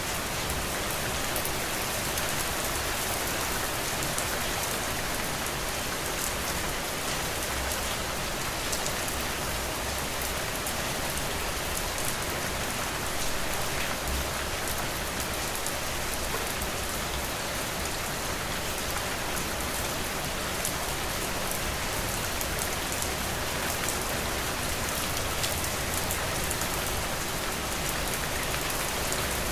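Steady rain falling, a dense even patter of drops on a surface with fine crackling ticks.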